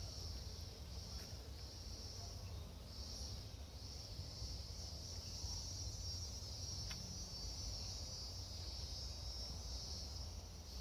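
An insect singing a high, buzzing trill, broken into pulses for the first few seconds and then running on unbroken. A low rumble lies underneath, and there is a single click about seven seconds in.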